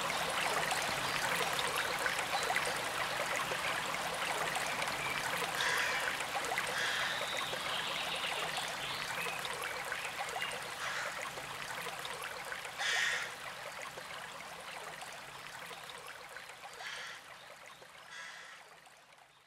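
A forest stream running steadily, with a few brief higher sounds standing out over the water. The whole sound fades out gradually over the last several seconds.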